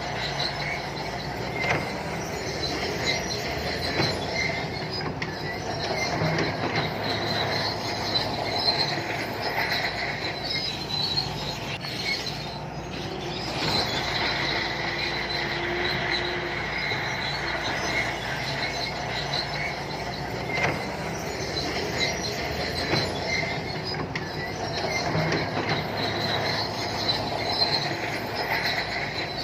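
Shantui crawler bulldozer working: diesel engine running under a high metallic squeal and clatter from its steel tracks, swelling and easing as it pushes.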